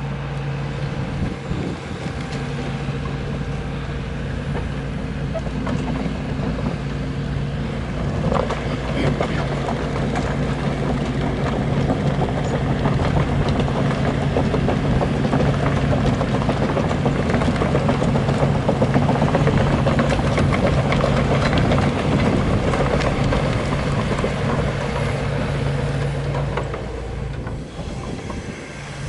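ChTZ T-170 crawler bulldozer's diesel engine running with a steady low hum. About eight seconds in it grows louder and busier with a clattering sound, and it eases off again near the end.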